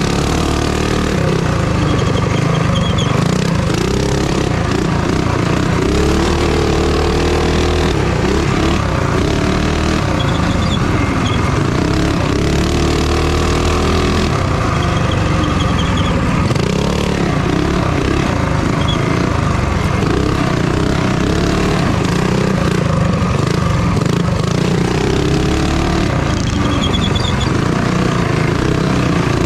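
Small minibike engine racing, its pitch climbing and dropping again and again as it accelerates and slows.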